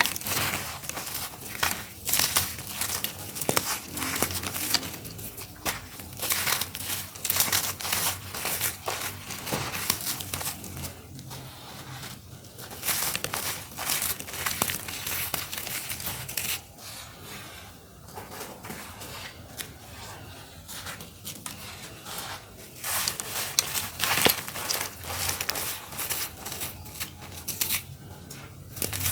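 Clumps of crunchy earthy dirt being crumbled, a dense run of crackling and crunching with a few brief lulls.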